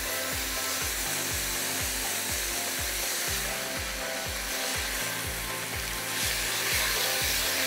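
Minced beef frying in a pot with a steady sizzle, a wooden spoon scraping and rubbing against the pot as the mince is broken up and stirred. Background music with a steady beat runs underneath.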